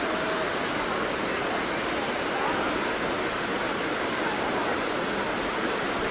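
Dunn's River Falls, water cascading steadily over rock terraces in an unbroken rush.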